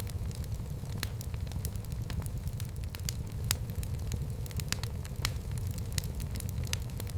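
Wood fire in a fireplace crackling, with frequent irregular sharp pops over a low, steady rumble of flame.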